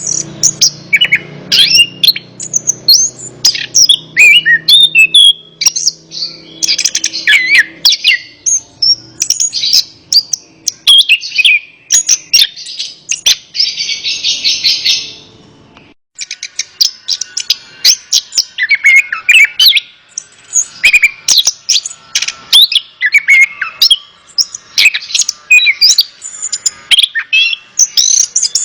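Chestnut-capped thrush (anis kembang) singing a continuous, varied song of fast whistles and chirps, with a buzzy trill a little before the middle and a brief gap about halfway through.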